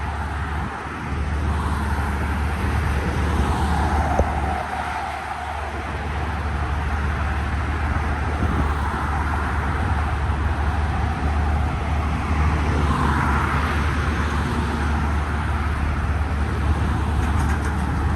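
Car engines and road traffic, a steady low rumble with a couple of swells, about four seconds in and again near thirteen seconds, as vehicles move past.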